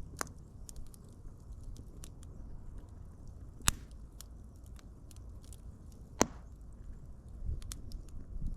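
Wood fire crackling: a low steady rumble of burning with scattered small snaps and two sharp, louder pops, about a third of the way in and again about two thirds in.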